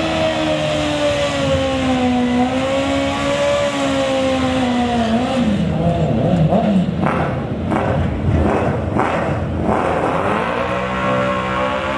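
Racing engines at a drag strip, running steadily with a gently wavering pitch, then revving in choppy blips for a few seconds before settling back to a steady run.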